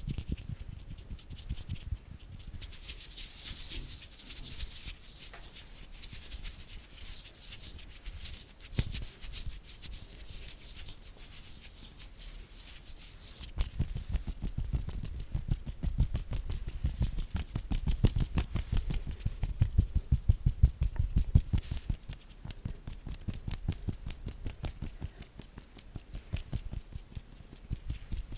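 Bare hands close to the microphone: palms rubbing together with a dry, high hiss, then from about halfway a fast run of soft quick hand pats and flutters that is loudest a little after that and continues more lightly to the end.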